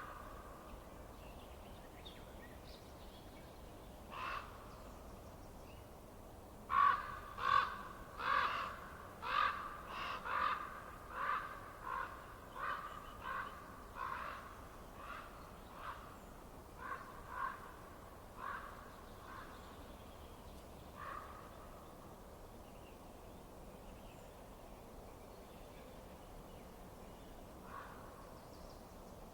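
A bird calling: a long run of evenly repeated calls, about one and a half a second, that grow fainter, followed by a few single calls later on, over a faint steady hiss.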